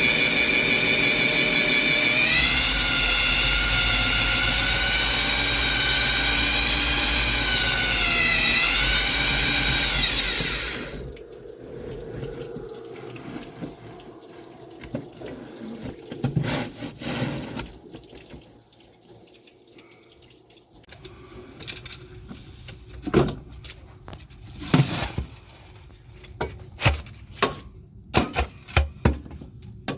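A motor-driven machine, most likely a power tool, runs loudly with a whining pitch that dips and recovers twice. It stops about a third of the way in, followed by scattered knocks and clicks of handling.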